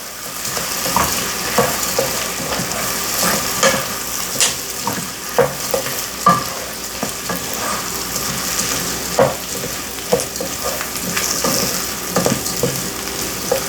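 Uncooked rice toasting in butter and oil in a pot, sizzling steadily, while a utensil stirs it with frequent scrapes and knocks against the pot.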